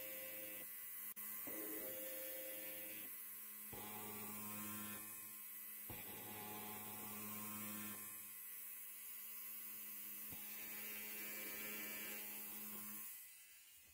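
Electric hair clipper buzzing steadily, its sound shifting every second or two, then falling away near the end.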